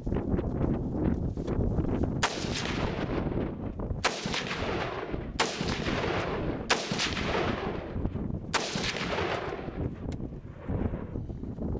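Five rifle shots, one every one to two seconds, each trailing off in an echo, over steady wind rumble on the microphone.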